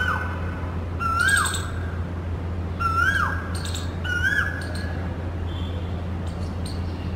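A bird calls four times over about five seconds, each call a short whistled note that rises and then drops sharply, over a steady low hum.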